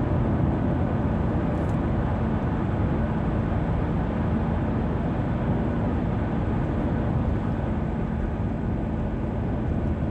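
Steady road noise of a car driving on a motorway: tyre roar and engine hum, constant throughout.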